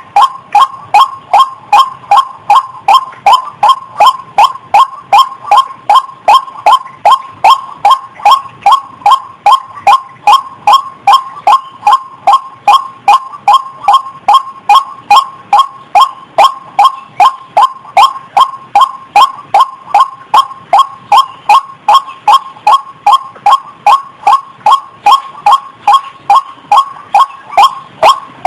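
A female ruak-ruak waterhen in breeding condition calling: a steady, unbroken series of short, loud, pitched notes, about two and a half a second, the kind of call used to lure waterhens.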